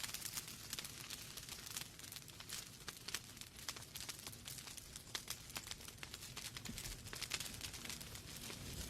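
Wood fire in a fireplace crackling: irregular sharp pops and snaps from the burning logs over a soft steady hiss of the flames.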